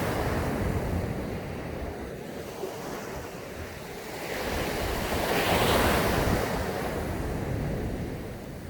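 Sea surf on a sandy beach: a wave builds, breaks loudest a little past the middle and washes back, over a constant low rumble of wind on the microphone.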